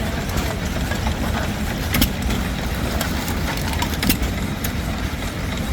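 Antique stationary gas engine running, with a sharp bang about every two seconds over a steady low rumble of engines.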